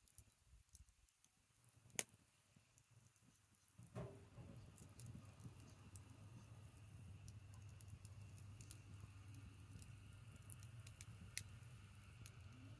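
Campfire of branches burning with faint, sparse crackles and one sharp pop about two seconds in; from about four seconds a low steady background rumble comes up under the crackling.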